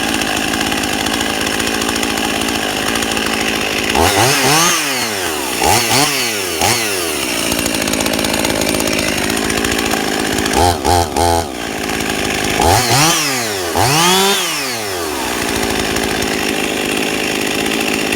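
Husqvarna 55 two-stroke chainsaw, rebuilt with a ported muffler, idling and then revved several times, the pitch rising and falling with each rev and dropping back to a steady idle between them; three quick blips come about two-thirds of the way through.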